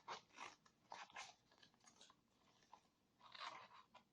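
Faint crinkling and crackling of clear plastic film being handled, in short irregular bursts.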